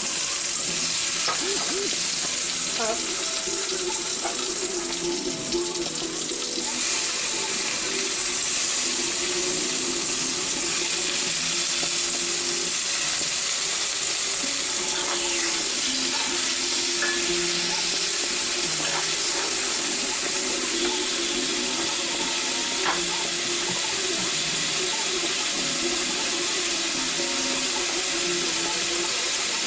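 Steady sizzling of food frying in hot oil in a pan.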